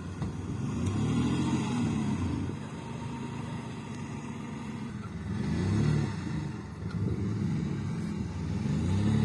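Off-road vehicle's engine revving up and down, its pitch rising about a second in, again around five to six seconds, and near the end.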